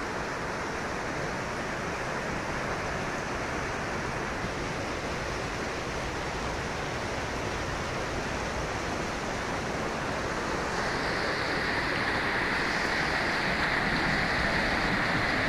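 Floodwater rushing in a steady, even roar, growing a little louder and hissier about two-thirds of the way through.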